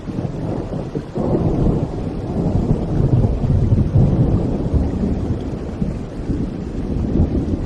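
A long rolling rumble of thunder over rain, swelling about a second in and easing off slightly near the end.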